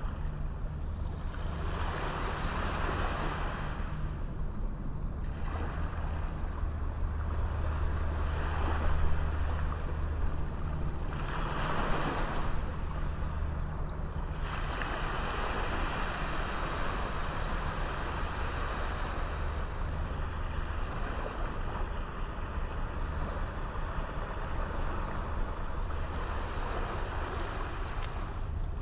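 Small sea waves breaking and washing up a beach, surging and fading every few seconds, over a steady low rumble of wind.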